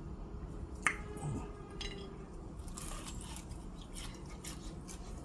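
Someone eating a fried chicken wing close to the microphone: a sharp click about a second in, then scattered small crunches and mouth clicks.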